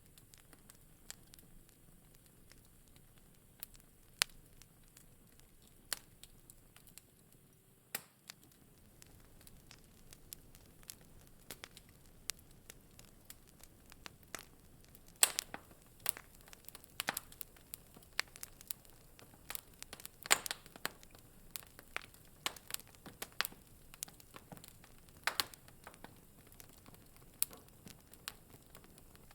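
Wood fire crackling in a fireplace: scattered sharp pops and snaps over a faint low hiss. The pops are sparse at first and come more often after about ten seconds, with the loudest ones about halfway through.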